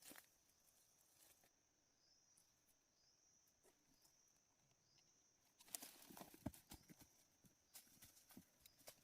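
Near silence: a faint steady high-pitched hum, with a cluster of soft clicks and knocks about two-thirds of the way through.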